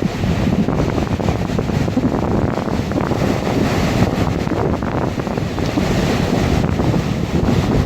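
Sea waves surging and breaking on the shore, a steady rush of surf, with wind buffeting the microphone.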